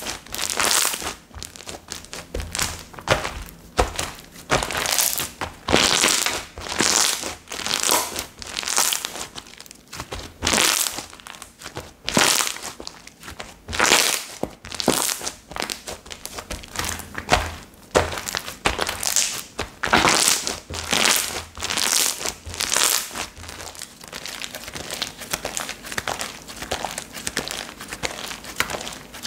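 Slime being squished and stretched by hand: an irregular run of crackly pops and squelches, about one or two a second.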